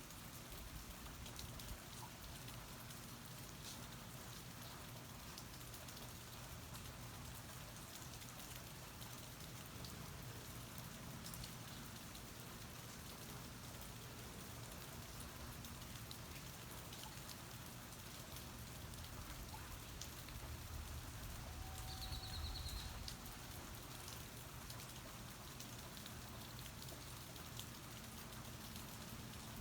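Steady rain falling, heard from under a porch: an even hiss with scattered drips and drops. A brief high warbling tone comes through about three-quarters of the way in.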